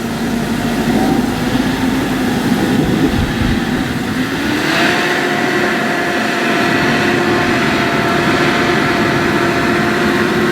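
John Deere tractor diesel engine working a buckrake on a silage clamp. The revs rise about four and a half seconds in and then hold steady at the higher pitch.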